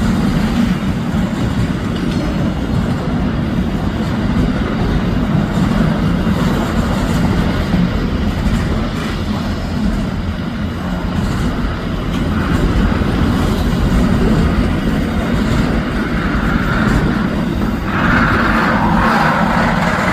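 Long freight train's wagons rolling past, a steady, continuous rumble of steel wheels on rail. The sound grows brighter and a little louder near the end.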